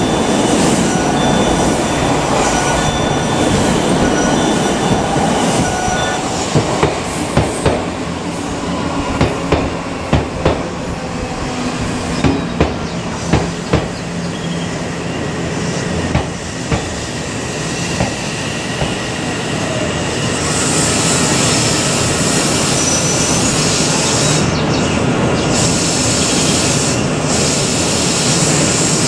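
Odakyu electric commuter trains at a station: a train running through at speed, with steady high tones over its rumble for the first few seconds. Then comes a run of sharp, evenly spaced wheel clacks over rail joints, and later a steadier, brighter running noise as another train moves along the platform.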